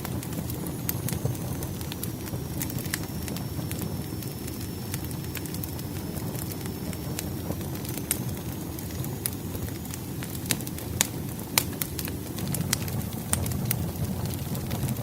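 Wood fire crackling: frequent sharp pops and snaps over a low, steady rumble.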